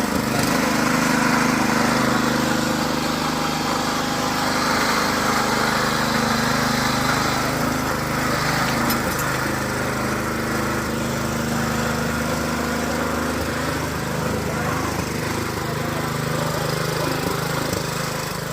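Two-wheel hand tractor's engine running steadily under load while it is used to thresh finger millet, with a constant noisy rattle over the engine note.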